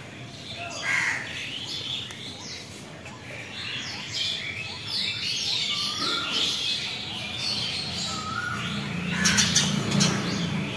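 Many birds chirping and calling together, with short rising and falling whistles. A few sharp clicks or knocks come about nine seconds in, and a low hum starts near the end.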